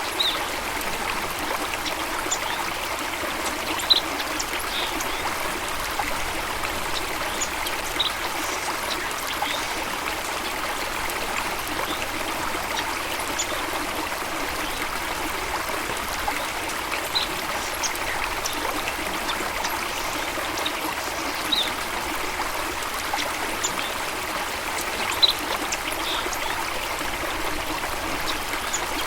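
Running water flowing steadily, like a stream or small cascade, with occasional brief high-pitched blips scattered through it.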